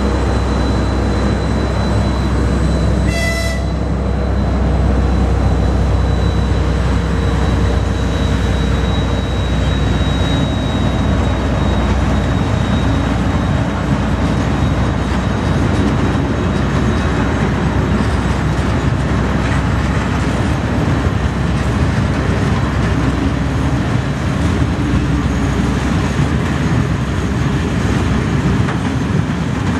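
A long freight train of open-top wagons rolling past at steady speed, with continuous rumble and wheel-on-rail noise. A thin high whine runs through the first dozen seconds or so and then fades, and a short high-pitched tone sounds about three seconds in.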